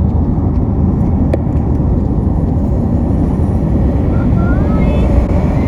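Steady road and engine rumble of a car driving along, heard inside the cabin.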